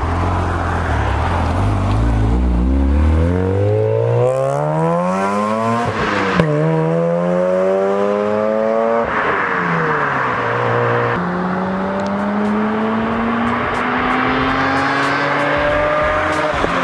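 Mazda RX-8 R3's two-rotor rotary engine idling low, then pulling away and climbing in revs, with a sharp break at a gear change about six seconds in and another climb. The revs fall away around nine seconds, and from about eleven seconds a second run climbs slowly and steadily.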